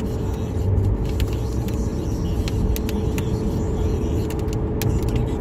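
A car's steady road and engine noise heard from inside the cabin while driving at highway speed. Scattered, irregular sharp ticks run over it: raindrops striking the windshield.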